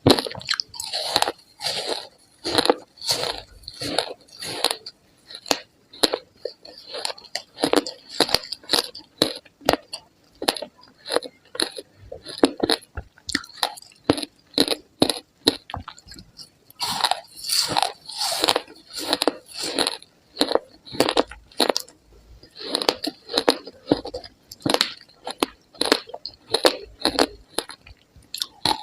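Close-miked biting and chewing of ice, a run of crisp crunches a few per second with a couple of short pauses.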